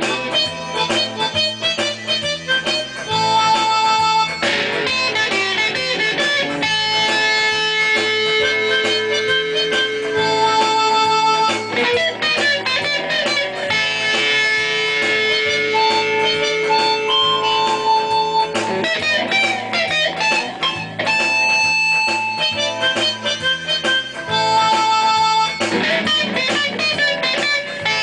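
Instrumental guitar music: a dense run of plucked notes with long held tones over it, playing without a break.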